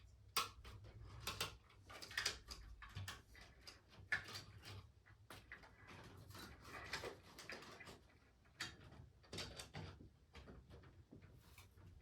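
Irregular clicks, taps and light clatter of fan hardware and tools being handled during installation, over a faint low hum.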